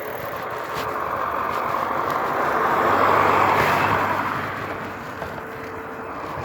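A car passing the riders: its tyre and engine noise swells, peaks about three seconds in, then fades away. A faint steady whine sits underneath before and after the pass.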